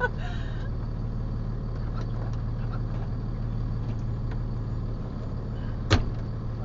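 Flatbed tow truck's engine idling as a steady low hum, heard from inside the cab, with a single sharp bang of a cab door shutting near the end.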